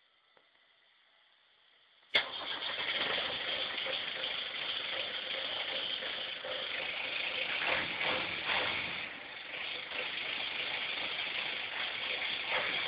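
ARO off-road vehicle's engine starting with a sudden catch about two seconds in, then running steadily and loudly.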